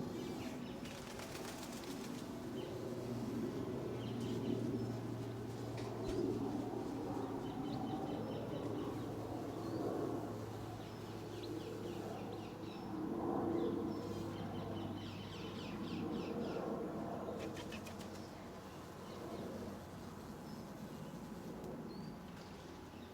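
Birds' wings flapping and fluttering, with small birds chirping in short high trills now and then.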